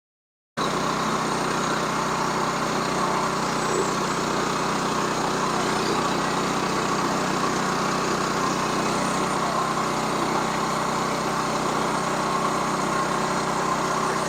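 Sawmill engine running steadily at an even speed, cutting in abruptly about half a second in after dead silence.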